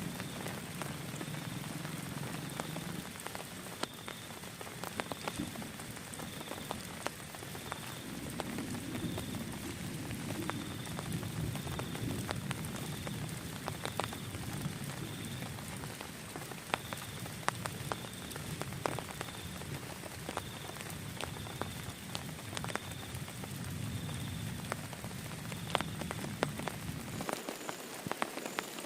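Steady rain falling, with many separate drops striking close by among the general hiss of the downpour.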